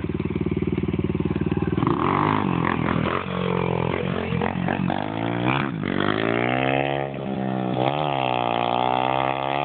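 A 107 cc pit bike's small engine running with an even beat, then about two seconds in the throttle is opened and it revs, pitch rising and falling several times as the bike is ridden.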